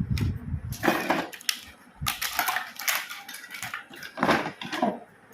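Plastic toy pieces clattering and packaging rustling, in irregular bursts, as a toy track set is unpacked by hand.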